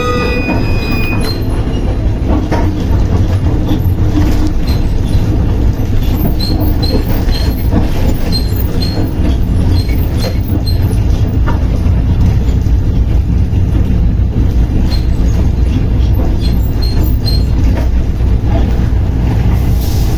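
Passenger train running, heard from the driver's cab: a steady low rumble of engine and wheels with irregular clicks from the rails. A horn blast cuts off about a second in.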